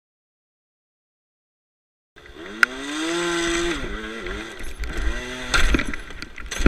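After about two seconds of silence, a small motorcycle engine revs: the pitch climbs and holds high for a moment, then rises and falls in several shorter blips of the throttle. A loud thump comes at the very end.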